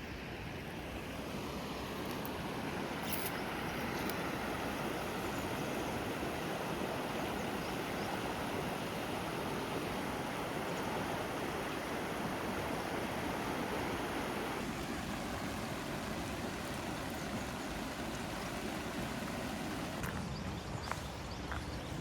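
Steady rushing of water, an even hiss that swells slightly about a second in and then holds, with a few faint ticks near the end.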